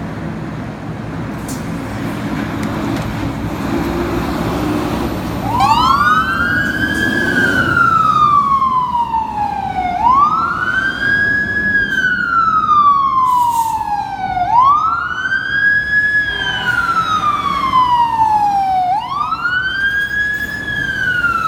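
Fire apparatus responding: a heavy engine rumble grows louder, then from about five seconds in the siren wails, sweeping up quickly and falling slowly, four cycles in all.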